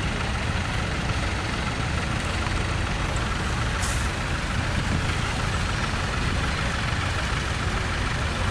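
Tractor engine running steadily, with a brief high hiss about four seconds in.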